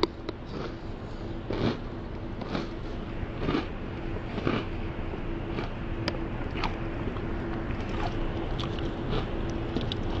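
A person chewing crunchy cereal, a crunch about once a second, with a few light clicks of a metal spoon against a plastic container in the second half, over a steady hum.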